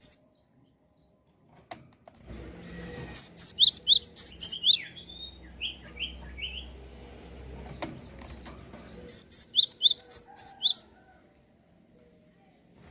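Gelatik songbird singing: two loud bouts of a quickly repeated, high, sharp two-note chirp, each bout about a second and a half long, about three seconds in and again about nine seconds in. A few softer, lower chirps come between the bouts.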